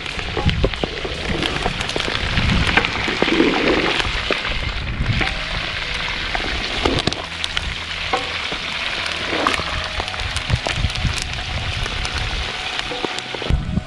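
Pork skin pieces sizzling and crackling in hot fat in an aluminium pot over a wood fire: a steady spitting hiss full of small pops. Occasional low knocks and scrapes come from a wooden paddle stirring the pieces.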